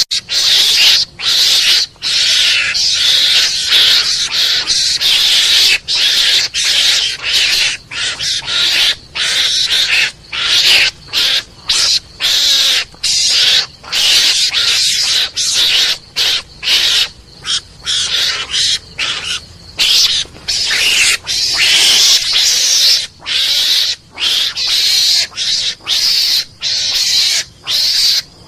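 Recorded mongoose (garangan) calls used as a hunting lure: a long run of high, noisy chattering calls broken by short gaps, the breaks coming about twice a second near the end.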